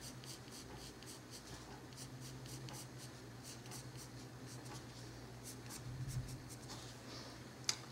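Colored pencil scratching lightly on paper in a quick run of short, repeated shading strokes, faint, over a low steady hum.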